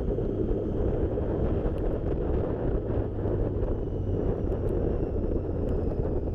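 Motorcycle riding along with steady wind rushing over the microphone, a continuous low noise with no breaks.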